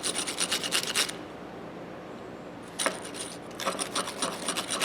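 Small brass wire brush scrubbing the inside of a steel ratchet head in quick, scratchy strokes. It stops for about a second and a half, there is one sharp knock, then the scrubbing starts again.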